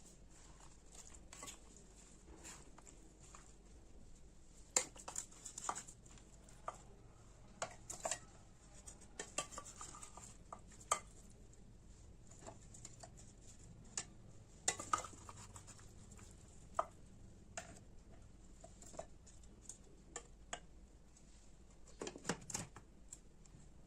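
Kitchen utensils clinking and tapping irregularly against dishes and bowls during food preparation, with a few louder clinks now and then.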